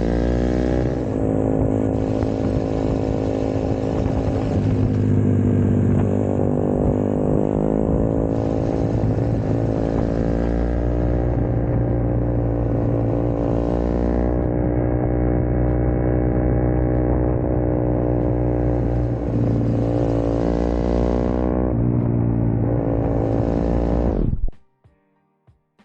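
Small single-cylinder four-stroke motorcycle engine running under way, its pitch rising and falling with the throttle and holding steady for stretches. The sound cuts out abruptly about a second before the end.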